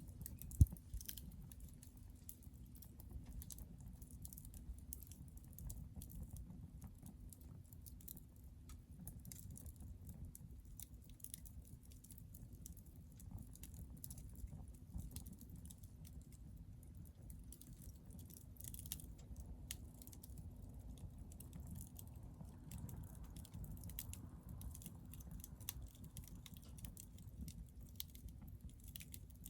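Hardwood fire crackling: scattered small pops and snaps over a low steady rush of burning, with one sharper pop just under a second in.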